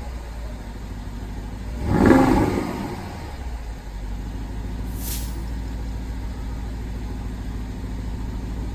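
BMW X5 50i's twin-turbo V8 through an exhaust with added bypass pipes, revved once about two seconds in and then settling to a steady idle. A brief hiss sounds about five seconds in.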